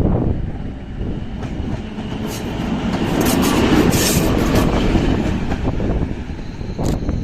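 Train passing close by, its wheels clicking over the rail joints. The rumble swells to its loudest about four seconds in, then eases off.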